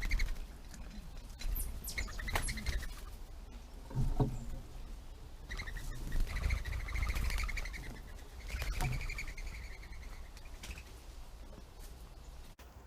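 Birds calling: several harsh, rasping calls, the longest lasting about two seconds around the middle. A few sharp knocks and a steady low rumble run beneath them.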